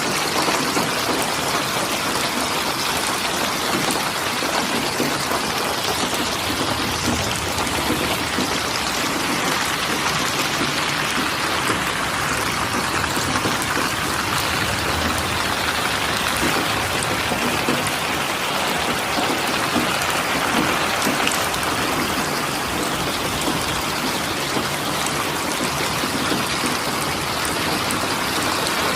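Steady rainfall, a dense even patter of raindrops on a surface.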